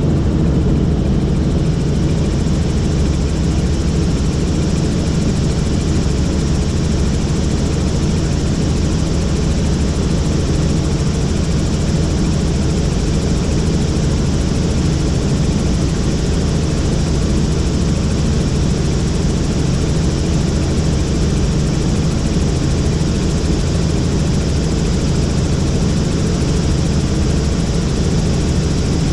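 Helicopter in flight: steady, even rotor and engine noise, heaviest in the low end.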